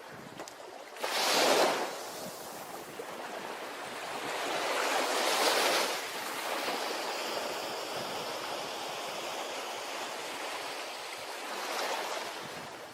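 Ocean waves breaking on a beach and washing back: one sharp break about a second in, a longer swell of surf around five seconds, and a smaller wave near the end, over a steady hiss of surf.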